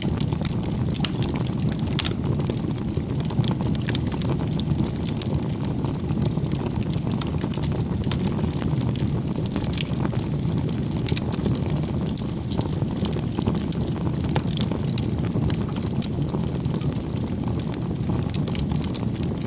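Wood campfire burning: a steady low rumble of flames with frequent small crackles and pops from the burning wood.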